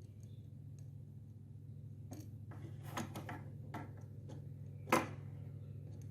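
A handful of light clicks and knocks, as of small objects being handled and set down, over a steady low hum. The loudest knock comes near the end.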